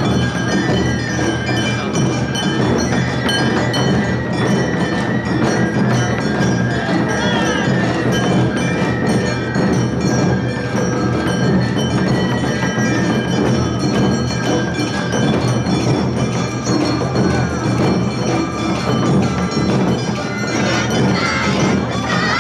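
Awa odori narimono band playing: kane hand gongs clanging and taiko drums beating the steady two-beat rhythm, with a shinobue flute melody above them.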